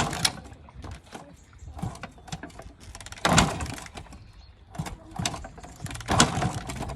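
A KTM dirt bike being kick-started: three kicks about three seconds apart, each a short clattering burst, and the engine does not catch and run.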